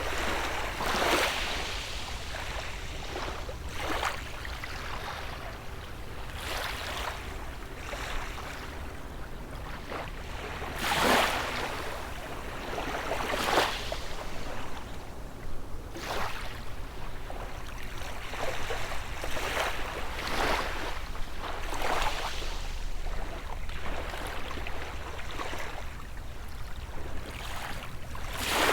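Small sea waves breaking and washing up the shore every few seconds, with a bigger break about eleven seconds in, over a low steady rumble of surf.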